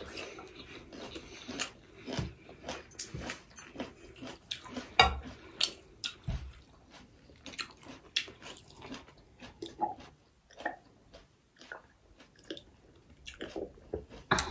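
Close-miked eating sounds: chewing of chicken pulao with irregular wet mouth smacks and clicks.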